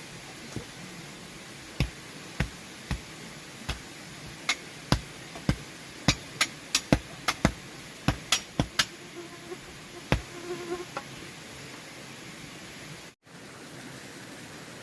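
Repeated sharp knocks, irregularly spaced, about twenty in ten seconds, over a steady background hiss; the knocks stop about eleven seconds in.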